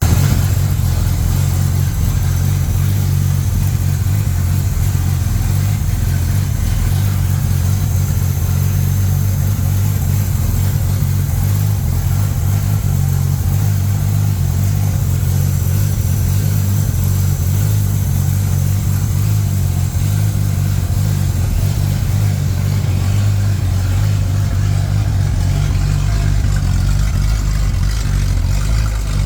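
Ute engine idling steadily through its exhaust, a deep even note with no revving.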